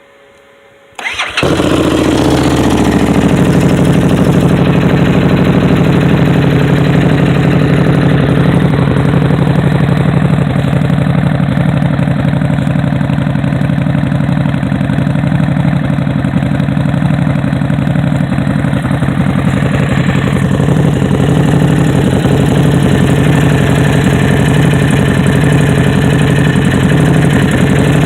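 Harley-Davidson Street Rod 750's V-twin engine started about a second in, catching at once, then idling steadily and loudly through a TAB Performance slip-on muffler.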